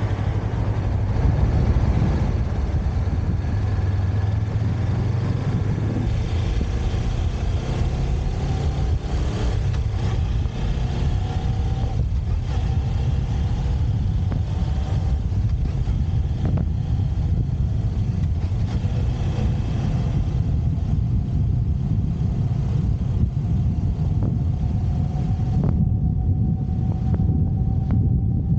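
Motorcycle engine running steadily during a ride, with wind noise over the microphone that thins out in the last third of the stretch.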